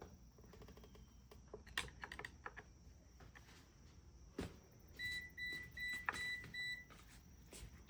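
Faint clicks and light metal handling, then a run of short, evenly pitched electronic beeps about five seconds in, lasting about two seconds.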